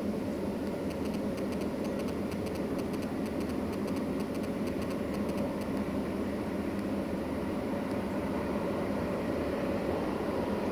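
A train's diesel engine running steadily, growing slightly louder toward the end, with faint rapid ticking during the first half.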